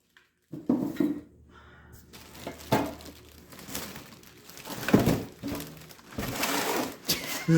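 Welder kit parts and packaging being handled: scattered knocks and clunks of hard plastic and metal pieces, with a longer spell of rustling packaging near the end.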